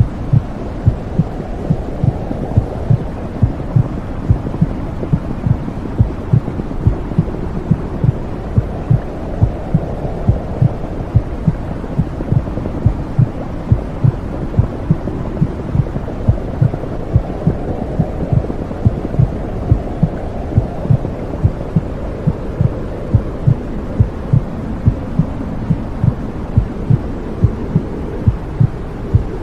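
Womb sound for soothing babies: a steady, even heartbeat thumping over a low whooshing rush like blood flow, which swells and fades slowly.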